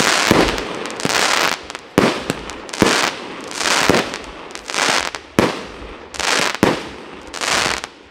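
Aerial fireworks going off one after another. A sharp bang comes every second or so, each followed by a spell of hissing crackle from the bursting stars.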